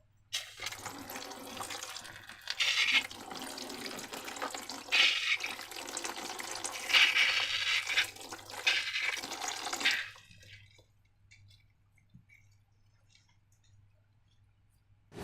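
Liquid pouring and splashing, swelling in four surges about two seconds apart, stopping about ten seconds in.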